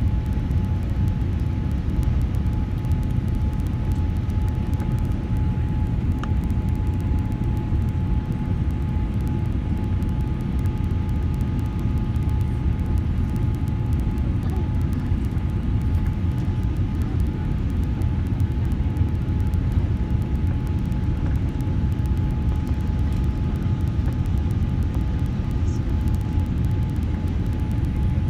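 Airliner cabin noise: a steady low rumble with a faint, even whine held above it.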